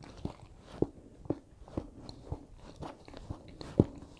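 A person chewing food close to the microphone, with moist mouth clicks at an even pace of about two a second; the loudest comes near the end.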